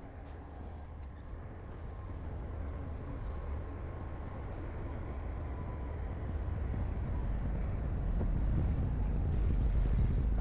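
Heavy construction machine's diesel engine running with a low rumble, growing steadily louder.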